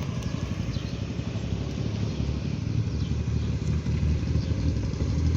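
Car engine running at low speed, a deep steady engine sound that grows louder near the end as the vehicle comes closer.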